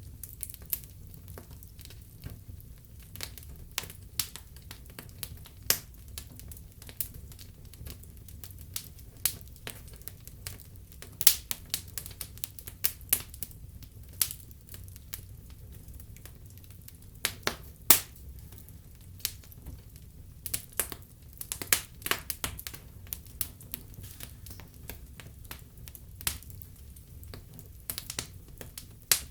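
Wood fire burning in a fireplace, crackling with irregular sharp pops and snaps over a soft low rumble of the flames.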